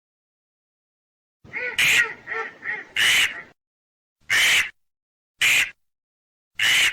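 Ducks quacking. A quick run of quacks starts about a second and a half in, then three single quacks follow about a second apart.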